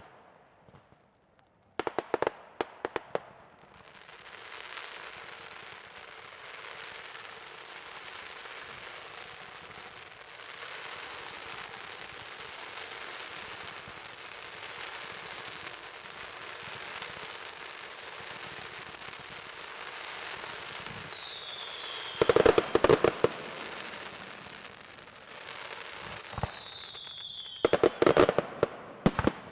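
Firework display of aerial shells. A quick salvo of sharp bangs is followed by a long stretch of steady crackling. A short falling whistle and a cluster of loud reports come about two-thirds in, and again near the end.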